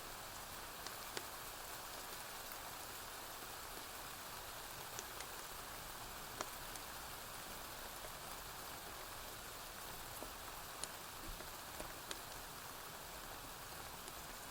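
Steady rainfall, an even hiss, with sharp single clicks scattered through it every second or so.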